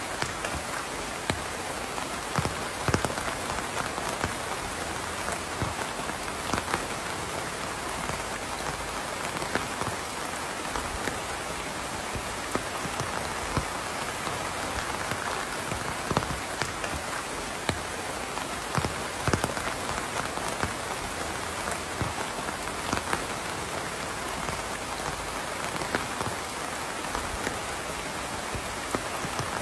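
Steady rain with a constant hiss, and individual heavier drops striking a surface as scattered sharp taps throughout.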